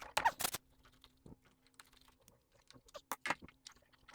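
Scattered light clicks and taps of small plastic and metal parts being handled during disassembly of an old Craftsman chainsaw.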